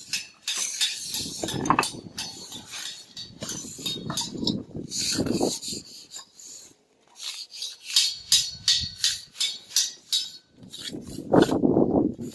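Mason's trowel scraping and working wet cement mortar in a series of irregular strokes, with short pauses between them.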